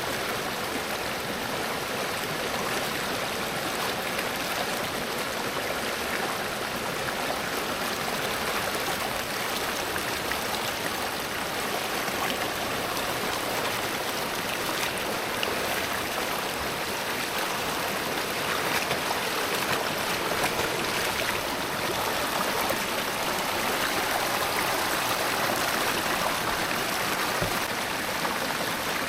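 A stream running over rocks, a steady rush of water.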